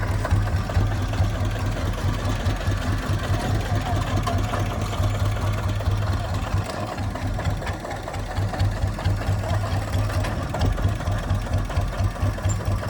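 Kubota ZT155 single-cylinder diesel engine running steadily with a low, pulsing beat.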